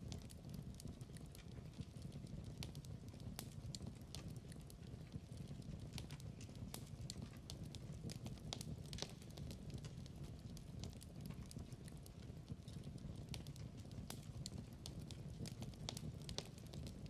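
Wood fire in a fireplace crackling: a low steady rumble of flames with irregular sharp pops and snaps.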